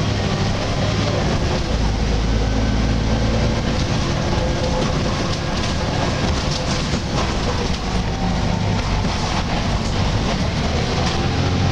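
Volvo B10BLE bus with Wright Renown body running under way: a steady diesel drone with a wavering groaning tone over it, and light rattles and clicks through the middle and near the end.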